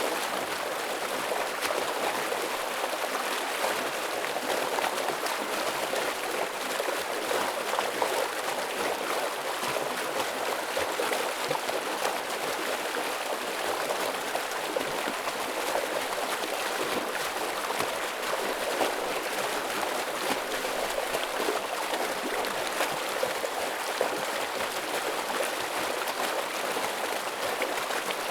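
Forest stream flowing heavily over rocks: a steady rush and splash of water that holds even throughout.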